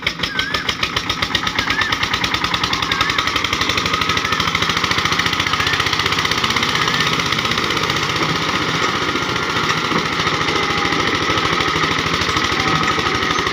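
Tractor's diesel engine running with a rapid, even beat of firing strokes, picking up speed over the first couple of seconds and then holding steady.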